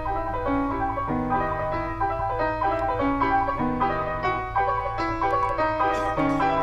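Piano music, a run of notes changing about twice a second over a steady low hum.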